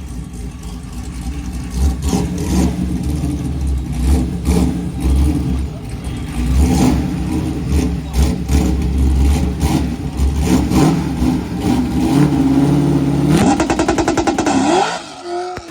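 Drag-racing car engine revving in repeated short blips, then held at a steady note and launched hard. The note climbs steeply near the end, then falls away.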